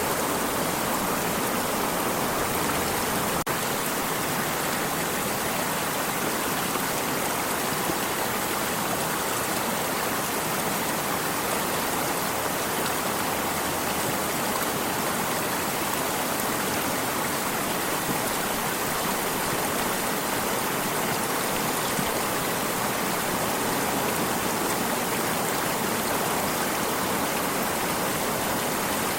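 Stream water flowing with a steady, even rushing hiss.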